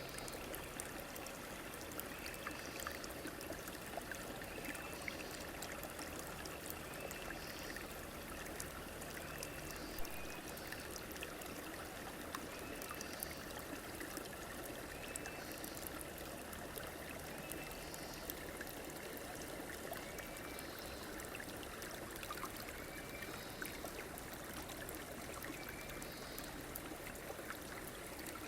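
A stream flowing steadily with a constant rushing and trickling. Short high chirps repeat every second or two over it, and there is one sharp click about ten seconds in.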